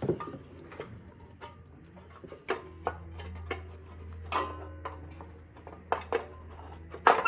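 Scattered clicks, knocks and clatter of metal and plastic parts being handled as the cover is fitted back onto a lawnmower's Briggs & Stratton engine. A low steady hum comes in about two and a half seconds in.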